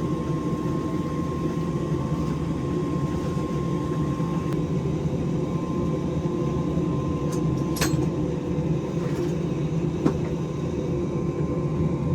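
Steady low roar of a running blacksmith's forge, with a couple of faint clinks about eight and ten seconds in.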